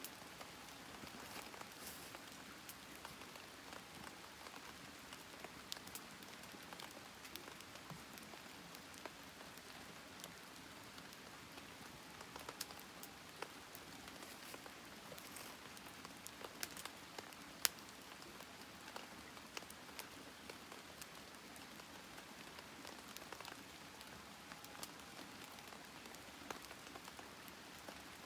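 Campfire burning with a faint steady hiss and scattered sharp crackles and pops, one louder pop about eighteen seconds in.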